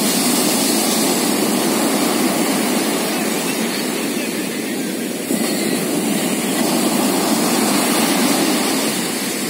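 Ocean surf: waves breaking and washing up the beach in a steady rush. It eases slightly just before five seconds in, then comes back up suddenly.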